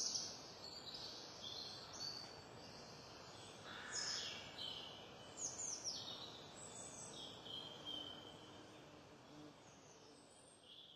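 Small songbird chirps: short, high, falling chirps in quick clusters about four seconds in and again from about five and a half to eight seconds, fainter later, over a steady outdoor hiss.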